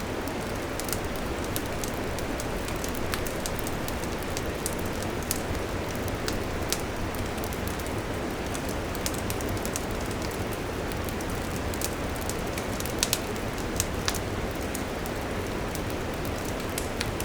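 Wood campfire crackling: a steady hiss under many sharp, irregular pops, with a few louder pops about thirteen seconds in.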